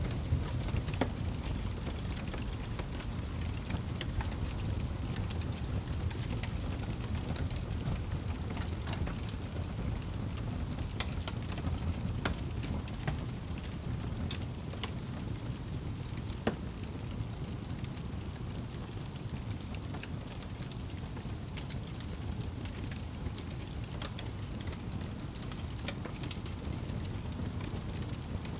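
Wood fire burning in a fireplace: a steady low rush of flames with frequent irregular crackles and pops, one sharper pop about sixteen seconds in.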